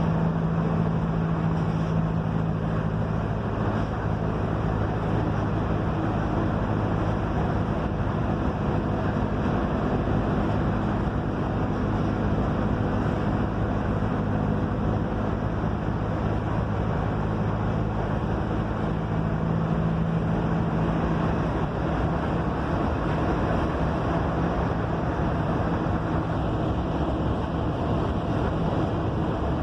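Mercedes-Benz OF-1721 city bus driving, its diesel engine humming steadily under continuous road and wind noise. The engine tone weakens about two-thirds of the way through.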